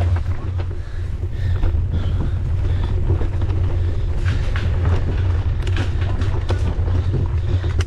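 Mountain bike ridden fast over a dirt trail: a steady low rumble of tyres and wind on the camera, with scattered rattles and clicks from the bike.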